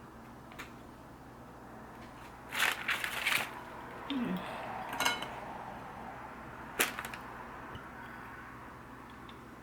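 Kitchen utensils knocking and clattering against cookware: a short cluster of clatter about three seconds in, then single sharp knocks around five and seven seconds.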